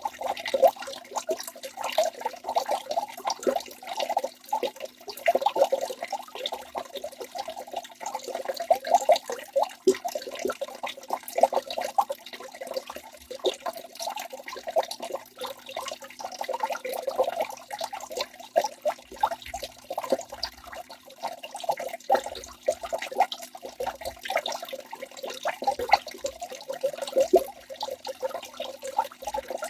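Waterfall: water falling and splashing continuously, with many small irregular splashes and gurgles over a steady rush.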